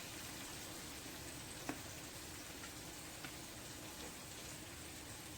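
Flour-coated chicken pieces deep-frying in hot oil: a faint, steady sizzle with a couple of small pops.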